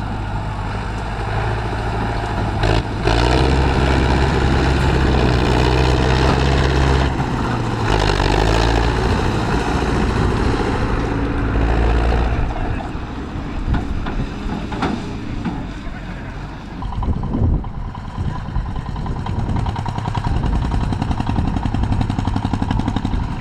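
Tractor engine running. About three seconds in it grows louder and heavier for some nine seconds, then drops back to a steady lighter run, with a few short knocks along the way.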